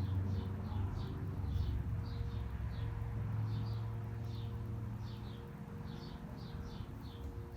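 Small songbirds chirping: quick, short, falling chirps repeated several times a second. A low city traffic rumble sits underneath and eases off about five seconds in.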